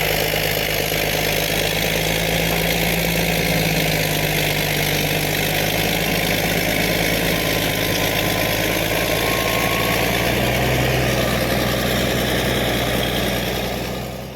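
Caterpillar D6D bulldozer's diesel engine running steadily, fading out near the end.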